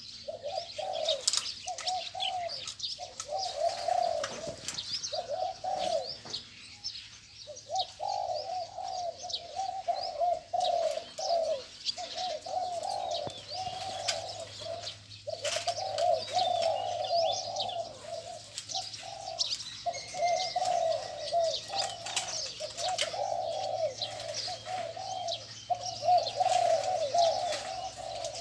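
Spotted doves cooing almost without pause, the phrases overlapping with only short breaks, while small birds chirp faintly and high in the background.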